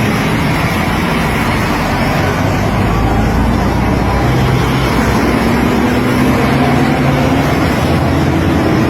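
Steady vehicle and road noise, with a motor vehicle's engine running close by.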